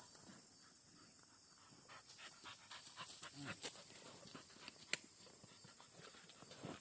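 Dog panting rapidly, with a sharp click about five seconds in.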